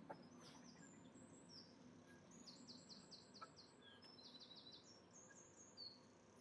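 Near silence with a faint low hum. A small bird chirps in short, quick series of high notes, about five in a row near the middle and four more a second later.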